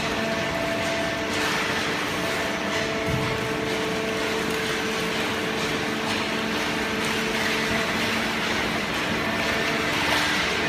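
Horizontal hydraulic carton baler running, its electric motor and hydraulic pump giving a steady hum, with a few faint knocks.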